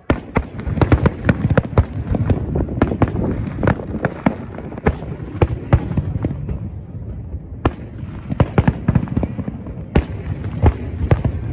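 Aerial firework shells bursting in a rapid, irregular string of bangs over a steady low rumble. The bangs thin out briefly a little past the middle, then pick up again.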